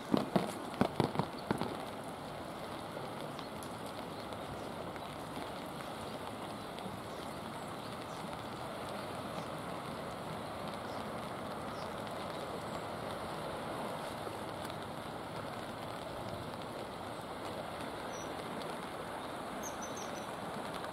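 Steady rain falling on wet pavement and the river surface, an even continuous hiss. A few sharp knocks in the first second and a half stand out above it.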